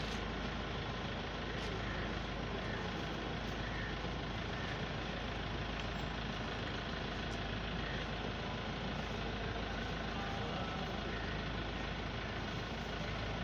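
Vehicle engine idling steadily: an even, unbroken noise.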